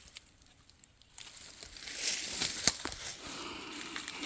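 Rustling, crunching noise with a few sharp clicks, starting about a second in after a near-quiet moment.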